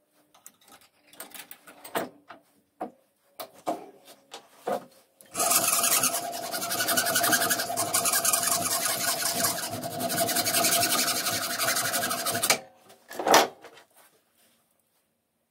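A small electric power tool, an abrasive sanding or grinding tool of a knife-making workshop, runs for about seven seconds with a steady hum under a loud scraping hiss. It comes after a few seconds of scattered knocks and scrapes of handling, and one sharp knock follows it.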